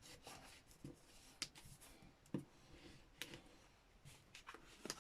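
Faint rustling of paper with a few light taps and clicks as paper scraps are handled and pressed down on a junk journal page.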